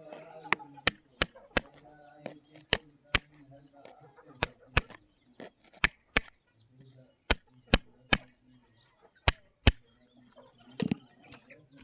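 Sharp knocks of hard objects striking, about sixteen in all and often in pairs about a third of a second apart, over a faint low hum.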